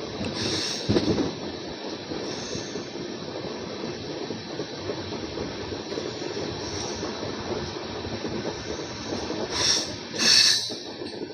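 Passenger train rolling along the track, heard from a coach: a steady rumble of wheels and running gear with a light hiss. Near the end come two short, loud bursts of high hissing.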